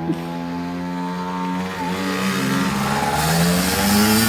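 Dirt bike engine running, then revving up about halfway through, its pitch rising and the sound growing louder.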